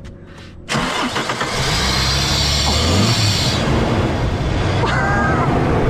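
A Ford Falcon ED's 4.0-litre overhead-cam inline-six is cranked and fires within about a second, then keeps running at a steady idle. This is its first start after eight years standing, on a newly fitted coil pack with starting fluid sprayed into the air box.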